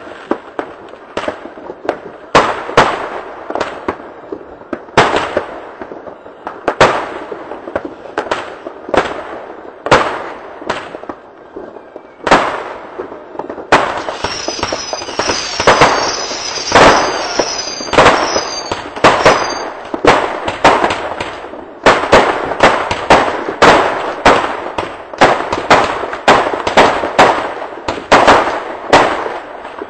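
Fireworks going off: an irregular string of sharp bangs and crackles that thickens to two or three bangs a second in the last third. A run of short, high whistles sounds in the middle.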